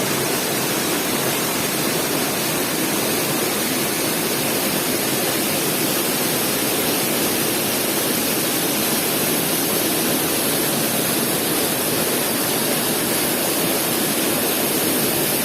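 Mountain waterfall: a loud, steady rush of falling water, unchanging throughout.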